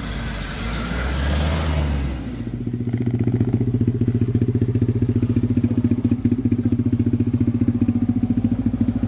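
A vehicle engine running close by. After about two seconds of mixed engine and road noise, it settles into a steady, fast, even pulsing idle.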